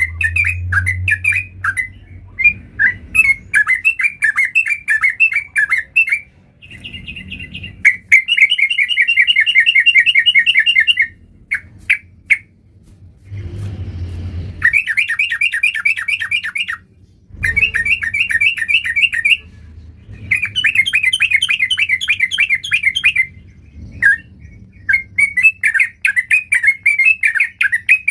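Yellow-vented bulbul (trucukan) singing in long runs of rapid, bubbly notes, in bursts of several seconds with short pauses between them.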